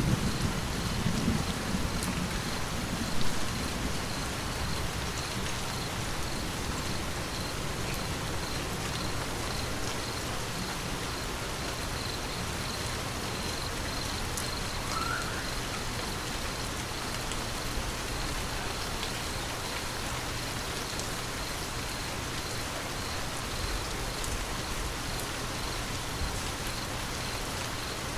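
Steady rain falling, with scattered drops pattering, as the tail of a low thunder rumble dies away in the first second or two.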